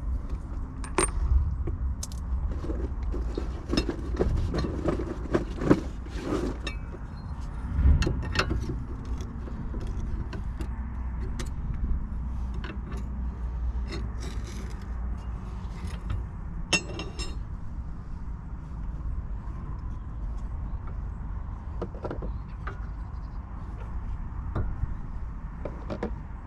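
Metal clinks, taps and knocks of hand tools and brake parts being handled during work on a sticking front brake caliper, thickest in the first two-thirds, over a steady low rumble.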